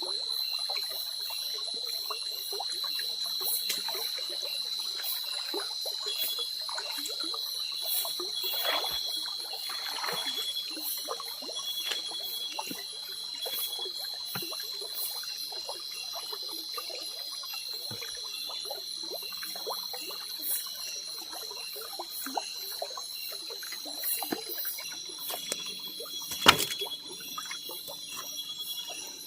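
Water trickling and splashing, with many small clicks, over a steady high-pitched chorus of night insects; one sharp knock near the end.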